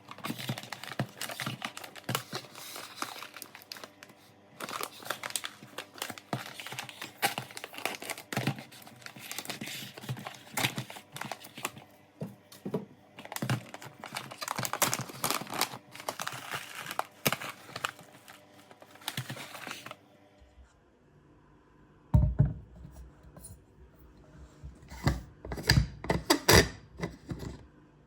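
Close rustling and crinkling, like paper or plastic being handled, runs dense for about twenty seconds and stops abruptly. After a short pause come a few sharp knocks and clatters of objects being set down.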